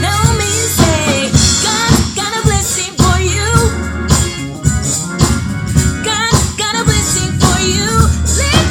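Gospel praise-and-worship music: voices singing a wavering melody over a band with a steady drum beat and heavy bass.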